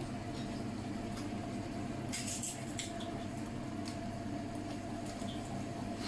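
Turmeric spice paste frying in oil in a steel pot, stirred with a wooden spatula that scrapes and knocks against the pot a few times about two seconds in, over a steady low hum.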